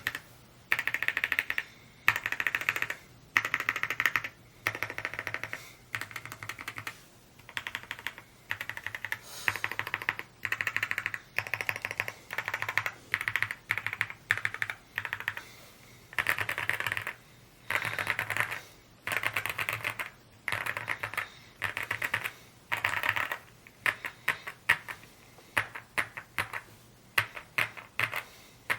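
Rainy75 aluminium-cased mechanical keyboard being typed on quickly: runs of rapid keystroke clicks in short bursts, with brief pauses between them.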